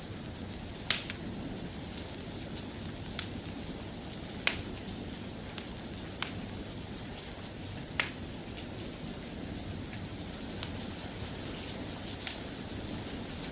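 Steady, soft rain, with a few sharp pops or clicks every second or two, the loudest about a second in, midway and just past halfway.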